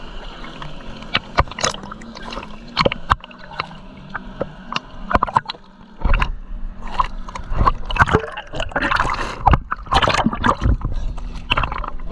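Seawater splashing and sloshing close to a swimmer's camera in irregular strokes, busier in the second half, over a faint steady low engine hum from jet skis nearby.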